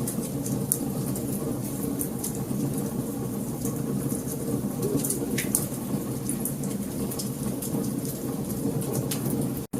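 Wood fire burning: a steady low rumble of flames with scattered sharp crackles and pops from the burning logs. The sound cuts out for an instant near the end.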